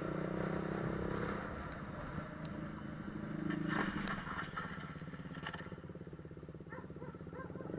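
A motorcycle engine running steadily, getting briefly louder about three and a half seconds in.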